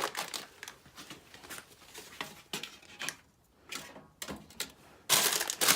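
Scattered clicks and knocks of objects being handled, then a loud crinkling rustle starting about five seconds in.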